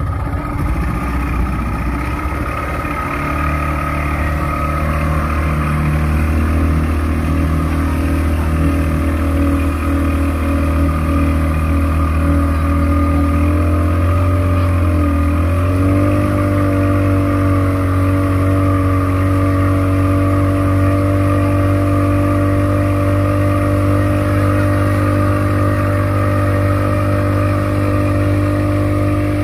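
A motor engine running steadily at a constant speed. About halfway through its pitch dips briefly, then holds steady at a new pitch.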